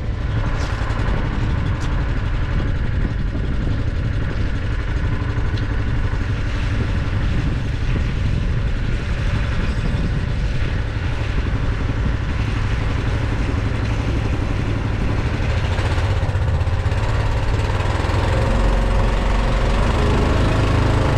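An engine running steadily at idle, with a deep low rumble that grows a little stronger near the end.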